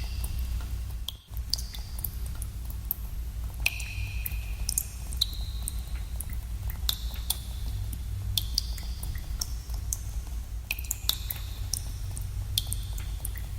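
Water drops falling into cave pools: irregular plinks, a couple a second, each with a short ringing tone, over a steady low rumble. The sound briefly drops out about a second in.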